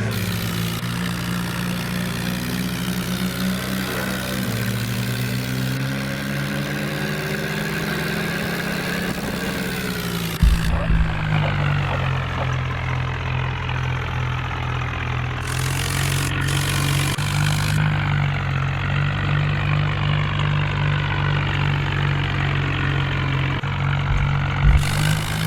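Mahindra tractor's diesel engine running, its speed shifting a few times and dropping about ten seconds in. There is a short knock about ten seconds in and another near the end.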